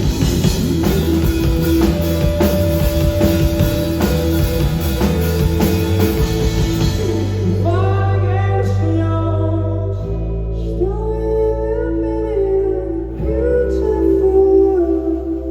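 Rock band playing live with a full drum kit, then about seven seconds in the drums drop out, leaving held bass notes under guitar and a singing voice.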